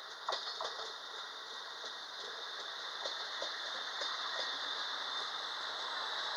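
Freight train behind an E652 electric locomotive approaching through the station: rolling noise slowly growing louder, with scattered clicks and rattles from the wheels and wagons.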